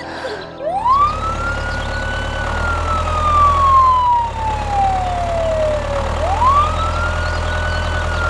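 A siren wailing: its pitch climbs quickly, holds briefly, then falls slowly over several seconds, starting a second climb about six seconds in. A steady low hum runs underneath.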